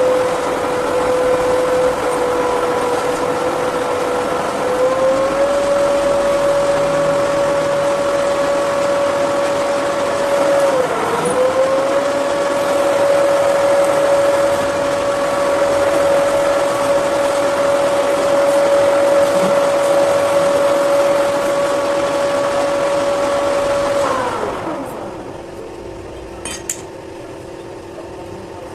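Metal lathe running with a steady motor tone over a rushing noise. The pitch steps up slightly about five seconds in and dips briefly once. Near the end the machine is switched off and winds down, falling in pitch, and a few light metallic clinks follow.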